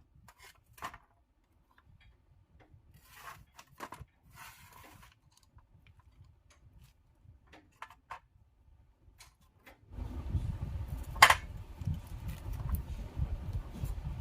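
Scattered light clicks and taps of tools and parts being handled. About ten seconds in, a steady low rumbling noise starts, with one sharp loud click soon after.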